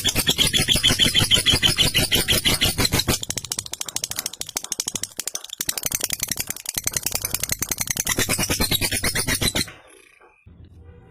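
Lovebird ngekek: a long, very rapid, unbroken chattering trill like a rattle, which stops abruptly near the end.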